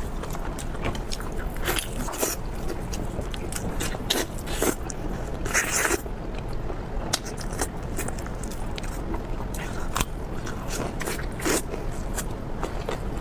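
Close-miked biting and chewing of crispy food: an irregular string of sharp crunches and crackles, with a longer crunch about halfway through, over a steady low hum.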